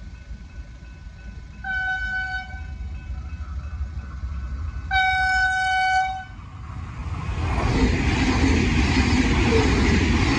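Train horn sounding twice, a short blast and then a longer, louder one, as a V/Line passenger train approaches the level crossing. The train then comes through close by, its noise building to a loud rush of wheels on rail. Faint level-crossing bells ring in the opening seconds.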